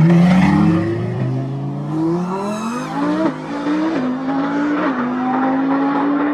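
Sports car engine accelerating hard through the gears. Its pitch climbs, then drops at each of about four upshifts. A brief high-pitched whine sounds about two and a half seconds in.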